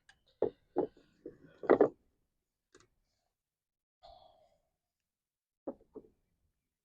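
A woman sighing and breathing close to a clip-on microphone, in short breathy bursts, with a soft click in between.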